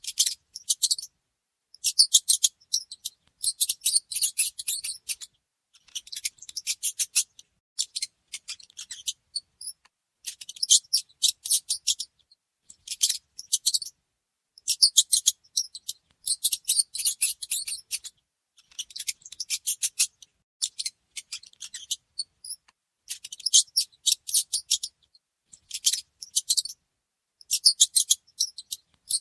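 Mouse scratching and rustling at close range: bursts of rapid, thin, high-pitched clicks lasting one to two seconds each, with short pauses between.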